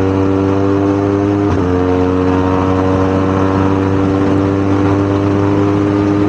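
BMW GS boxer-twin motorcycle engine running hard as the bike accelerates at highway speed, its steady note slowly rising in pitch, with a brief dip in pitch about one and a half seconds in.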